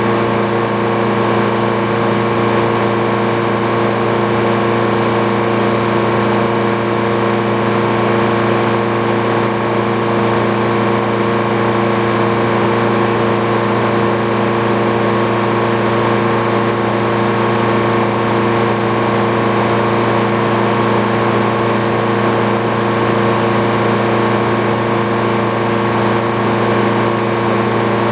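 An old Frick sawmill and the engine driving it running steadily: a constant loud machine drone that holds one pitch throughout.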